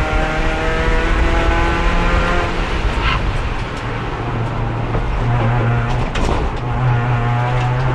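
Race car engine running in fourth gear, its pitch sagging slightly until it lifts off the throttle about two and a half seconds in. The transmission is held in fourth because the worn gearbox has no third gear and won't shift at speed. A brief sharp sound comes about three seconds in and a few knocks around six seconds, and then the engine settles back to a steady note.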